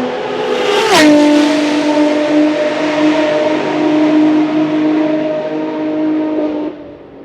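Ferrari FXX K's V12 race engine passing at speed on a steady high-rev note. Its pitch drops sharply as it goes by about a second in, then it holds the lower note and slowly fades as it pulls away, cutting off near the end.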